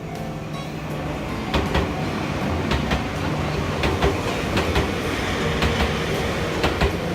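Four-car Enoshima Electric Railway (Enoden) train passing close by with a steady rumble, its wheels clacking over the rail joints in paired knocks about once a second.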